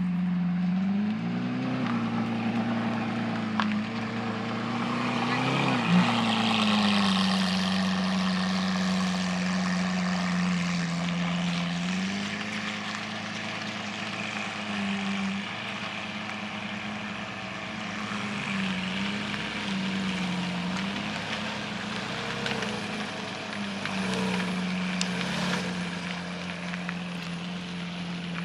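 Car engines idling and being revved as cars pull away, with several rises and falls in engine pitch and a sharp pop about six seconds in.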